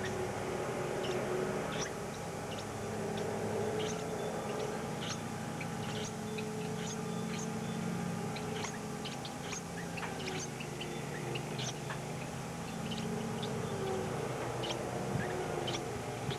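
Small birds chirping in many short, high calls scattered throughout, over a steady low hum.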